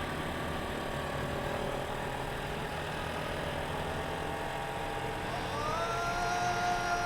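A motorcycle engine running steadily under a dense rushing noise. About five seconds in, a siren-like tone rises and then holds.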